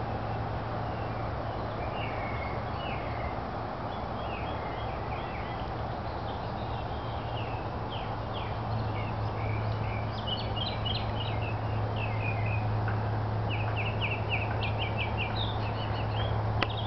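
Small birds chirping in the trees, with quick runs of chirps in the second half, over a steady low hum that gets a little louder about halfway through.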